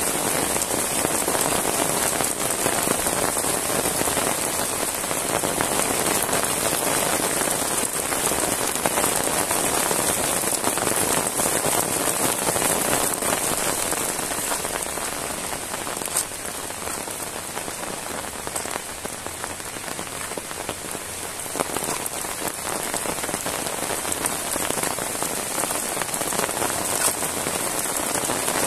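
Heavy rain falling steadily on a wet paved road and roadside grass: a dense, even hiss that eases slightly in the middle, with a couple of single sharp taps.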